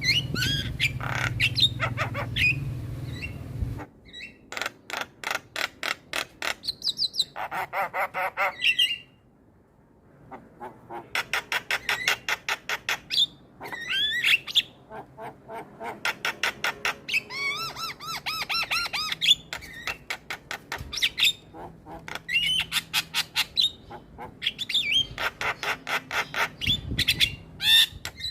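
Javan myna calling: quick runs of sharp clicking, chattering notes mixed with short whistles and squawks, pausing briefly about nine seconds in.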